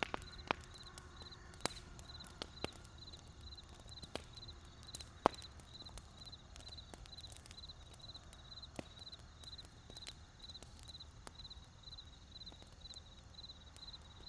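Wood fire crackling: irregular sharp pops and snaps, the loudest about five seconds in, over a low steady rumble. A faint high chirping repeats about twice a second.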